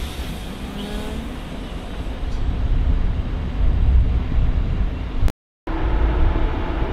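Intercity passenger coaches rolling slowly past on the tracks: a steady low rumble with faint rising tones about a second in. The sound drops out completely for a moment about five seconds in, then comes back as rumble with a faint steady hum.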